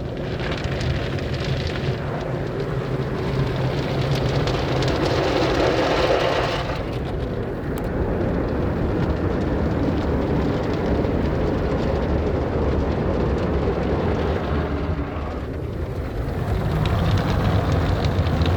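MacNeil automatic car wash tunnel equipment running: a steady rushing din of washing machinery that changes character about seven seconds in and again about sixteen seconds in, as different stages pass.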